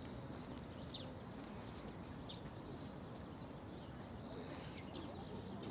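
Birds chirping in short, scattered calls over a steady low outdoor background rumble.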